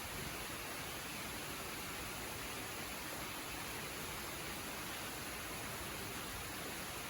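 Waterfall's steady rush of falling water, an even hiss without breaks or changes.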